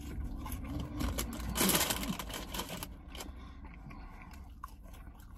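A person eating chips: chewing with small mouth clicks and rustles of the paper chip bag, the loudest rustle a little under two seconds in, over a low steady hum.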